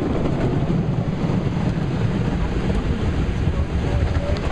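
Water jets of a Ryko SoftGloss Maxx automatic car wash spraying over a car, a steady rushing wash heard from inside the closed car during the spray stage before the brushes.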